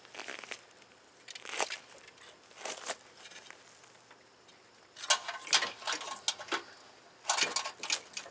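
Scattered clicks, scrapes and rustles of hands and tools working on the steering rack and power steering lines under the car, with a burst of sharper knocks and clinks about five seconds in and another near the end.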